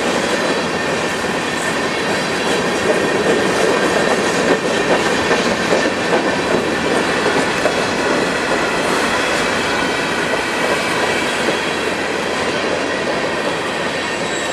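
Freight train cars rolling past at close range: steady, loud rumble and rapid clatter of steel wheels on rail, with faint thin high tones of wheel squeal over it.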